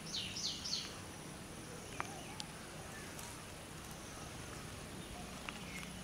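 A bird calls three quick high notes, each sliding downward, right at the start, over a faint outdoor background. Two brief faint clicks follow about two seconds in.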